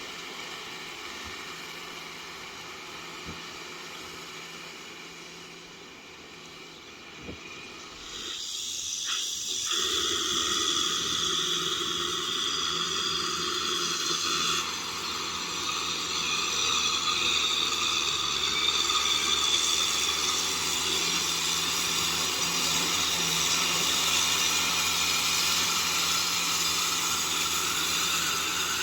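Kubota M6040SU tractor running steadily with its rotavator at work. The noise jumps louder, with more hiss, about eight seconds in.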